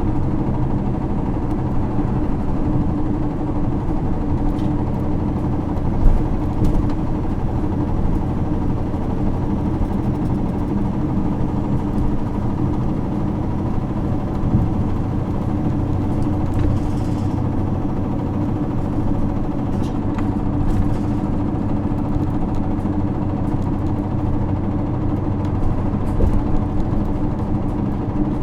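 Isuzu LV234L2 city bus's 6HK1 inline-six diesel engine running at a steady, unchanging speed, heard from inside the bus. A single knock about six seconds in.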